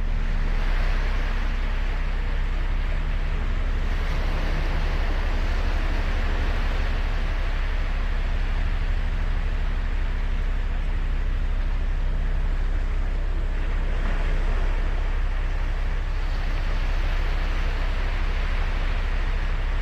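Ocean surf on a sandy beach: a continuous wash of breaking waves that swells every few seconds, over a steady low rumble with a faint low hum.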